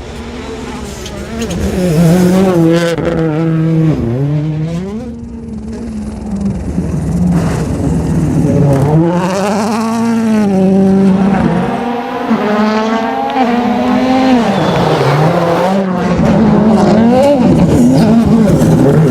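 Rally car engine at full attack, revving hard and rising in pitch through each gear, then dropping back on lifts and braking several times. It runs flat out and loud near the end.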